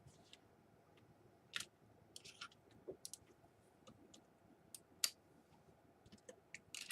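Faint, scattered clicks and taps of small plastic laptop parts being handled and fitted during reassembly, about half a dozen, the sharpest about five seconds in.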